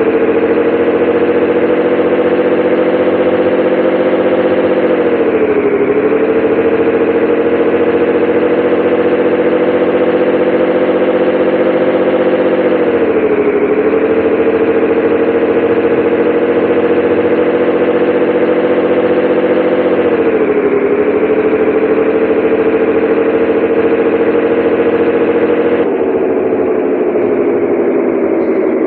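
Scania 113H 360 truck's 11-litre straight-six diesel engine running under way, heard as a steady drone. Four times the engine note dips briefly and climbs back. Near the end it gets a little quieter and starts to fall in pitch.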